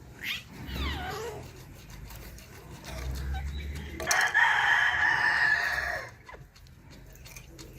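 Birds calling: a couple of short falling calls, then about four seconds in a loud, harsh call lasting about two seconds that sounds like a rooster's crow.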